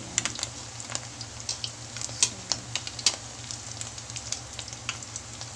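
Alamang (tiny shrimp) fritter shallow-frying in oil in an aluminium wok: a steady sizzle with frequent sharp crackles and pops, the fritter almost done and turning crispy.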